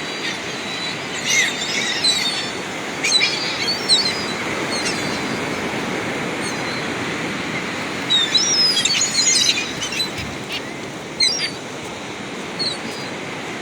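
Birds calling in several short bursts of high, quickly changing squeals and chirps, over a steady background rush of beach surf.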